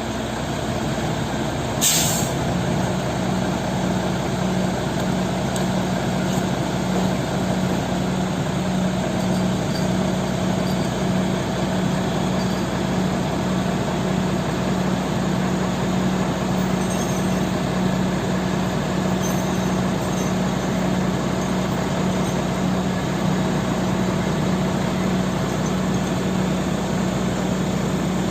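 Diesel engine of a Mitsubishi Fuso Super Great truck running steadily with a low, slightly pulsing hum, and a short burst of air hiss about two seconds in.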